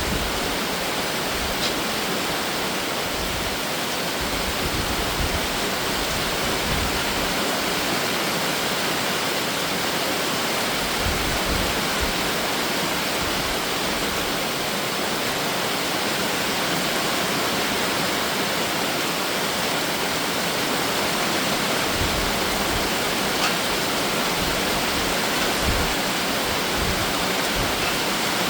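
Heavy summer shower rain falling steadily: an even, unbroken hiss of rain.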